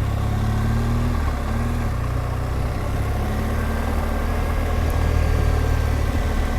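BMW R1200GSA motorcycle's flat-twin (boxer) engine running steadily under way, with a rush of wind noise over it; the engine note shifts slightly about a second in.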